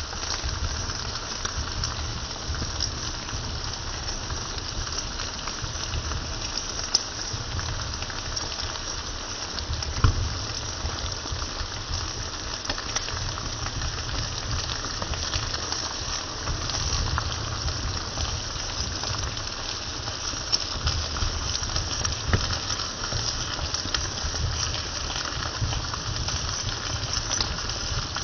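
Chopped pork offal in tomato sauce (bopis) frying in a skillet: a steady sizzling crackle, with two sharper clicks about seven and ten seconds in.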